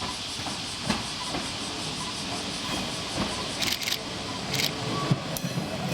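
Train noise around a diesel railcar: a steady hiss with scattered clicks, and two short sharp hissing bursts about two-thirds of the way through.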